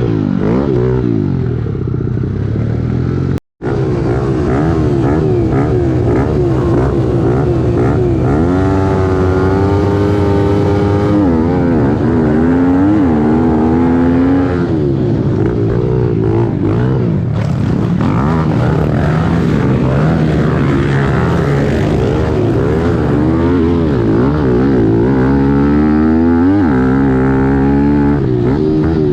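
A 2017 Kawasaki KLX110L's small air-cooled four-stroke single-cylinder engine revving hard under race throttle. Its pitch climbs and drops over and over with throttle and gear changes. The sound cuts out briefly about three and a half seconds in.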